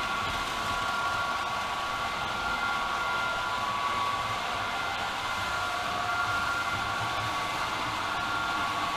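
Märklin model train running on its track: a steady motor whine over the running noise of wheels on rail.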